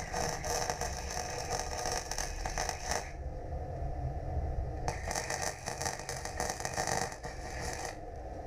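Two runs of MIG welding, each a steady crackle lasting about three seconds, with a short pause between them, over a low hum.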